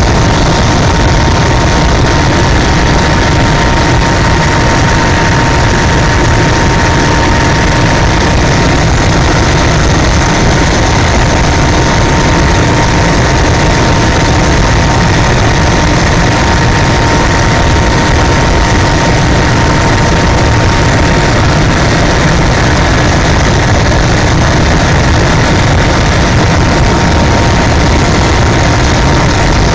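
Helicopter in flight: a loud, steady drone of engine and rotor with a thin, constant whine riding over it.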